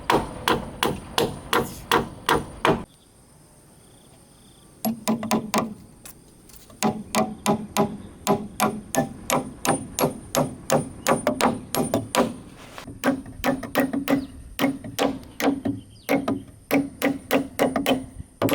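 Steady, rapid hammer blows on wood, about three a second, with a short break about three seconds in before the hammering resumes.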